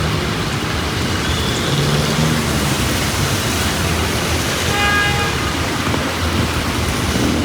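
Heavy rain hissing steadily on a city street, with traffic engines running underneath. A vehicle horn sounds once, briefly, about five seconds in.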